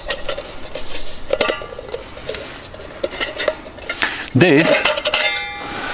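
Stainless steel camp stove and cookware pieces clinking and clattering against each other as they are handled, with a string of sharp metallic clinks that ring on briefly. A short vocal sound about two-thirds of the way in.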